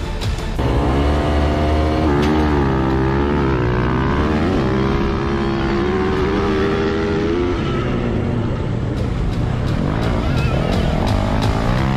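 Dirt bike engine sound revving, its pitch rising and falling several times.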